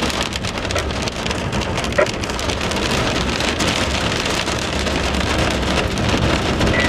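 Extremely heavy rain pouring down: a dense, steady patter of countless drops, with one short sharp blip about two seconds in.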